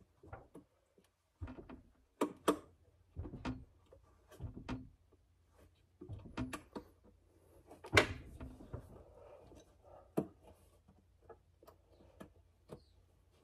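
Irregular clicks and knocks of hands fitting an LED headlight bulb and its wiring into a car's headlight, with one sharper knock about eight seconds in.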